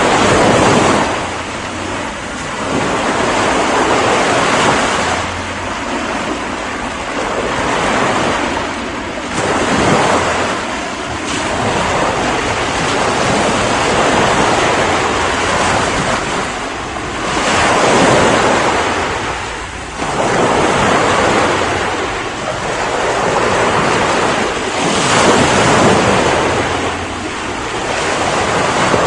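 Ocean waves breaking and washing on the shore, the surf swelling and falling back every few seconds, with some wind.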